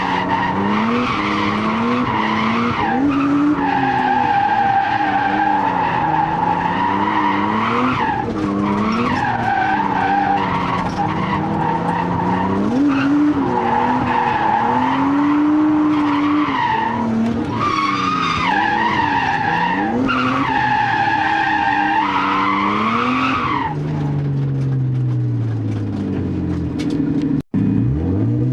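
Nissan R32 Skyline's turbocharged RB20DET straight-six revving up and down while drifting, with tyres squealing almost continuously as a steady high screech. Near the end the squeal stops and the revs fall away, then the sound cuts out for an instant.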